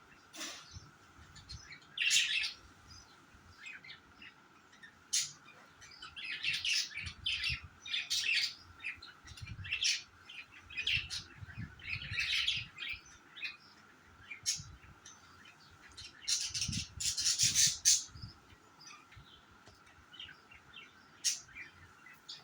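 Pet budgerigars chirping and chattering in quick, irregular bursts of short high calls, busiest about two-thirds of the way through.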